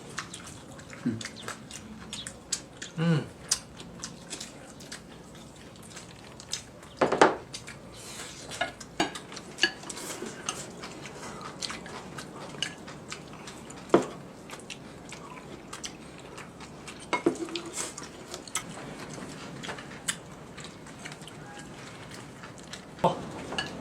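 Tableware clinking as people eat: scattered light clicks and taps of utensils against plates and bowls, a few louder knocks now and then.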